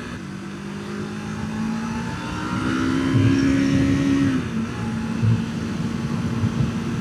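Sportbike engine running under way, the revs climbing about two seconds in and easing off after about four seconds, with wind noise on the helmet microphone.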